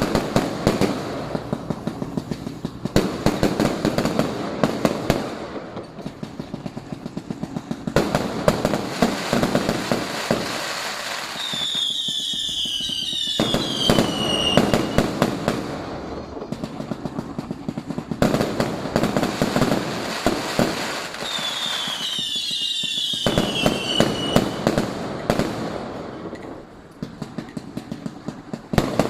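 Many fireworks and firecrackers cracking and banging in rapid, overlapping volleys. Twice, about twelve and twenty-two seconds in, a high whistle falls in pitch over the din.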